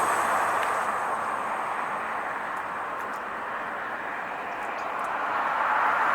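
Road traffic going by: a steady rushing of tyre noise that eases off and then swells again near the end as another vehicle approaches.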